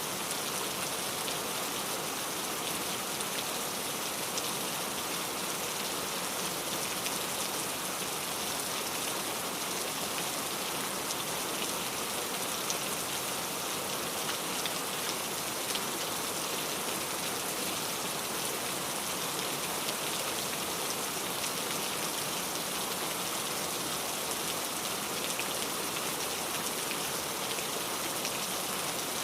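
Steady rain falling, a dense even hiss of drops with fine patter hitting a surface.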